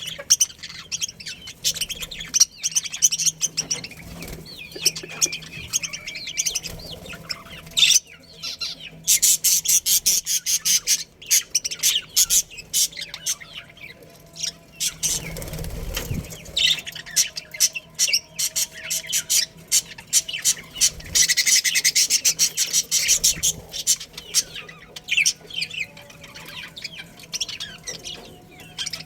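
A colony of budgerigars chirping and chattering continuously, with stretches of fast, rattling chatter about a third of the way in and again about three quarters of the way in. A brief low rumble comes about halfway through.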